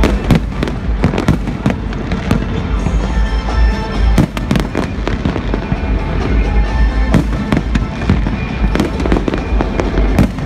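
Aerial fireworks display: a dense, continuous string of shell bursts, sharp bangs overlapping over a constant low rumble, with a heavier cluster of bangs a little past four seconds in.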